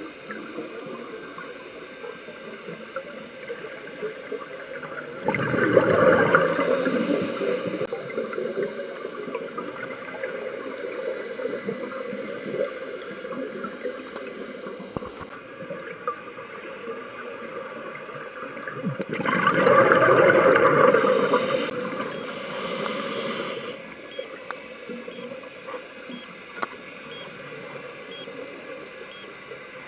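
Underwater recording: a steady crackling hiss of the sea, broken twice by a loud gurgling rush of scuba regulator exhaust bubbles as the diver breathes out, about five seconds in and again about twenty seconds in.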